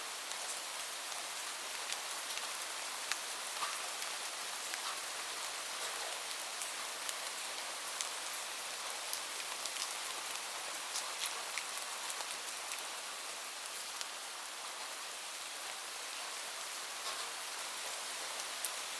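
Steady rain falling, a hiss with many distinct drop ticks scattered through it.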